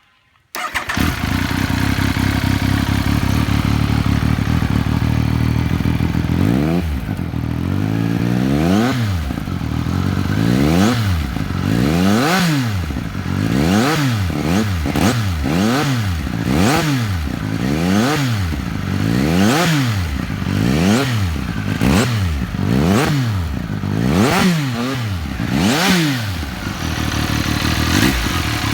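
Benelli TNT 1130 motorcycle's inline-three engine starting up through its exhaust about half a second in and idling. It is then revved in a long run of quick throttle blips, rising and falling about once a second, before settling back to idle near the end.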